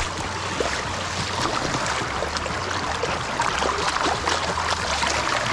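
Mountain stream running over rocks, a steady rush of water with many small splashes through it.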